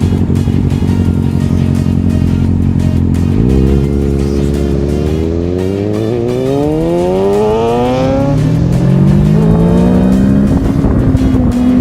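Kawasaki Ninja 650 parallel-twin engine running steadily, then accelerating with a long rise in pitch from about three and a half seconds in, dropping at a gear change near eight seconds and rising again before levelling off. Background music plays along with it.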